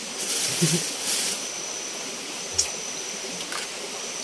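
Steady rush of running water, like a small forest stream, under a thin, constant high whine. There are two short noisy bursts, like rustling or splashing, in the first second and a half, and a single click past the middle.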